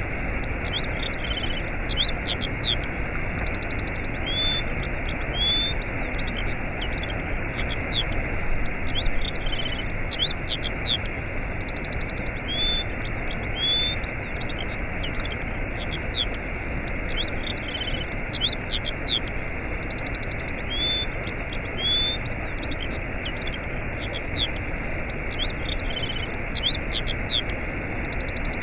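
Waterfall rushing steadily, with many small birds chirping and trilling high above it.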